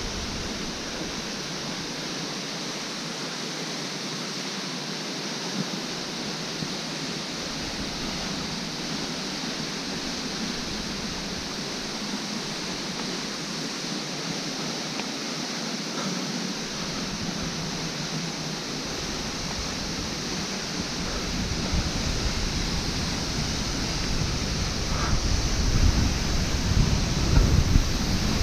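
Steady rushing water of a waterfall, an even hiss. A low rumble builds in over the last several seconds and the sound grows louder.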